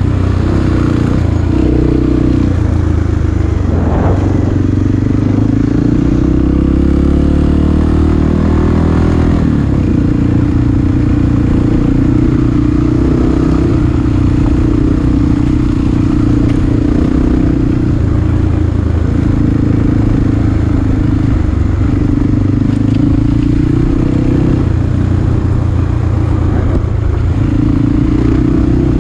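Several dirt bike engines running and being revved inside a tunnel. Their pitch steps up and down, with one quick rev about four seconds in.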